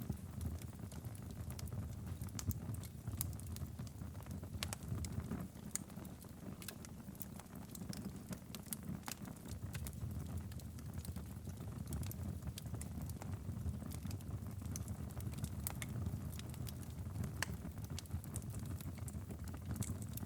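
Wood fire in a fireplace crackling and popping in irregular sharp snaps over a steady low rumble.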